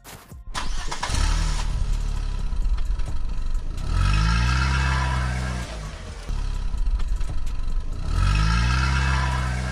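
An engine revs up in repeated surges a few seconds apart, each rising in pitch and then holding.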